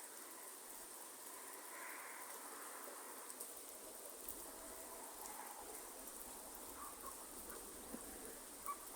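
Rain falling in a rainforest: a faint steady patter with scattered drop ticks and a steady high insect drone. A few soft animal calls sound over it, and one sharper drop tick comes near the end.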